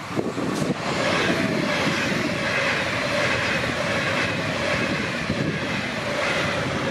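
A train passing the trackside: a steady rushing noise with a steady mid-pitched whine running under it, rising about a second in and easing off near the end.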